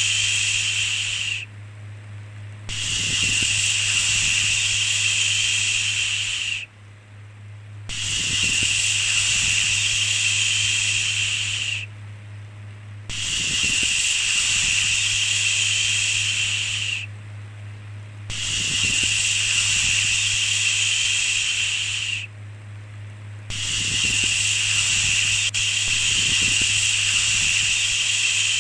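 A repeated long 'shhh' shushing sound, each shush lasting about four seconds with a break of about a second between, in an even loop. A low steady hum runs underneath throughout.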